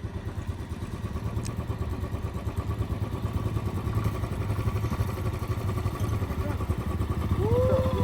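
Motorcycle engine running steadily on the move, a low rapid rumble that grows slowly louder. A short pitched sound rises and falls near the end.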